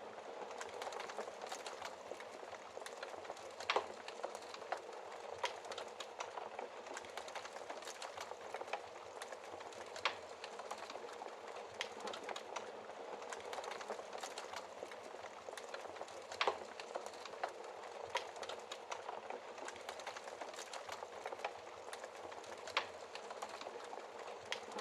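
Wood fire in a fireplace crackling steadily over a soft hiss, with scattered small snaps and a few louder pops.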